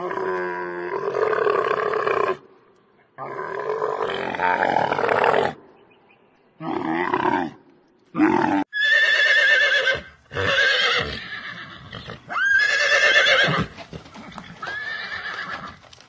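Dromedary camels calling with two long, low groans, followed by a horse neighing several times in quavering high whinnies.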